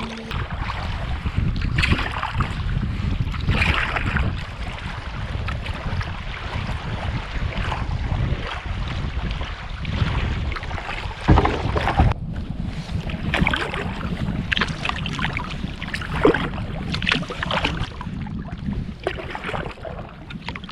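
Wind buffeting the microphone on a kayak out on the lake, over water sloshing and splashing, with an irregular splash every few seconds from the paddle.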